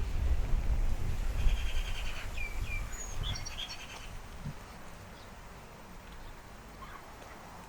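Small birds calling: a rapid trill, a couple of short sliding notes and a few high chirps, over a low rumble that is loudest in the first three seconds and then fades.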